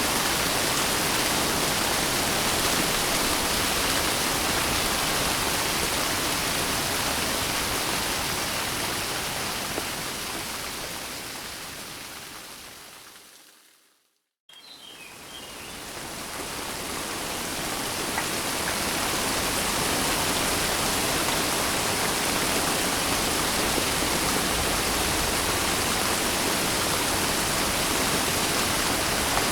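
Steady rain, an even hiss of falling water, that fades away to silence about halfway through, then cuts back in faintly and swells to full level over several seconds, as at the join of a looped recording.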